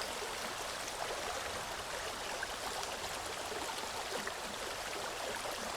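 A stream running steadily, a continuous even rush of flowing water.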